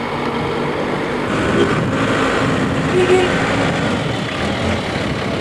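An engine running steadily under a rushing noise, with a few faint steady tones.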